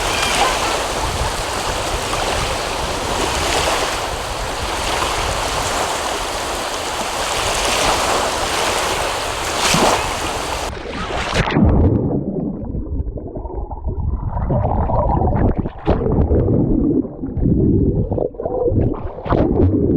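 Waves washing on a reservoir shore with wind buffeting the microphone. About eleven seconds in this gives way abruptly to a duller, muffled rumbling with a few sharp knocks.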